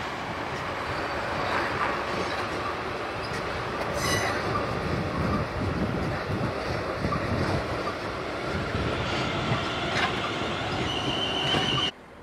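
South Western Railway Desiro electric multiple unit passing close by, its wheels rumbling and clattering over the rail joints. Brief high wheel squeals come about four seconds in and again near the end. The train noise then cuts off suddenly.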